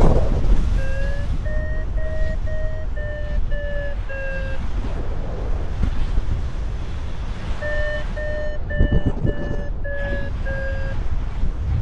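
Paragliding variometer beeping its climb tone: two runs of short, evenly spaced beeps, about two a second, over steady wind noise on the microphone.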